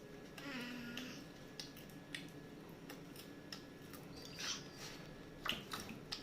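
Popcorn being chewed: close-up crunches and small clicks at irregular intervals, with the loudest crunches about four and a half and five and a half seconds in, and a short hum about half a second in.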